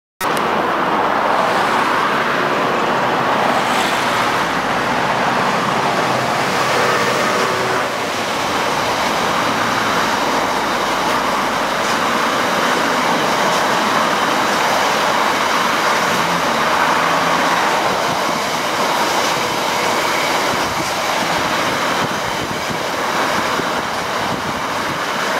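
Class 66 diesel locomotive on a loaded coal train passing beneath, its engine running, followed by the long rake of covered coal hopper wagons rolling past with a steady rumble of wheels on rail.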